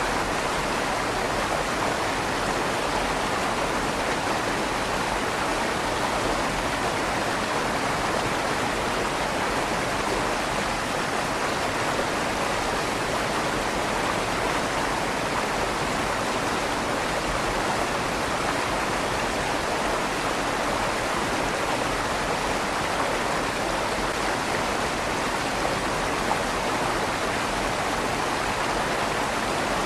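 River water flowing under a stone bridge, a steady rushing with a slight echo off the inside of the stone tunnel.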